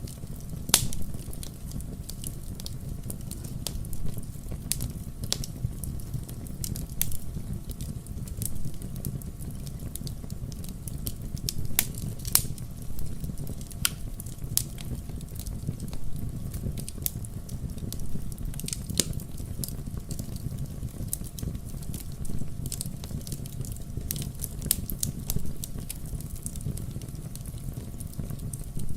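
Wood fire burning: a steady low rumble with frequent irregular crackles and sharp pops of burning firewood.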